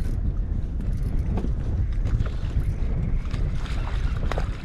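Wind buffeting the microphone in a steady low rumble, over the wash of water around a small boat.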